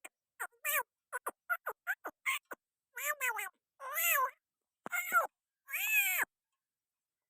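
Parrot calling: a quick run of short, high chirps, then four longer calls, each rising and falling in pitch.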